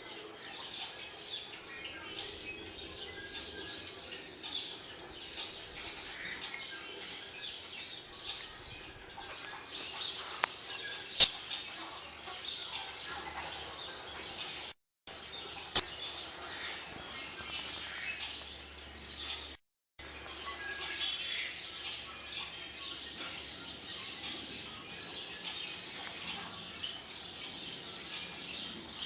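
Many small birds chirping and singing together, played back from a bird video on a TV, with a sharp click about eleven seconds in. The sound cuts out completely twice for a moment.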